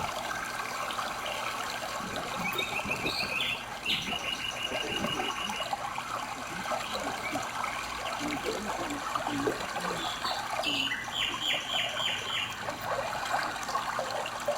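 A stream trickling steadily over rocks, with a bird giving short runs of quick, evenly spaced chirps twice: a couple of seconds in and again about two-thirds of the way through.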